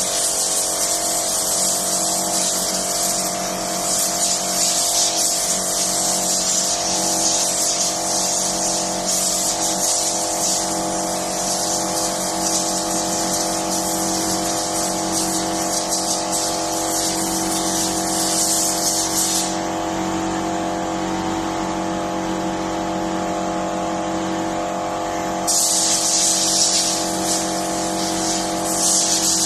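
A machine running steadily at a fixed pitch, under a loud hissing spray or air jet that stops for about six seconds two-thirds of the way through and then starts again.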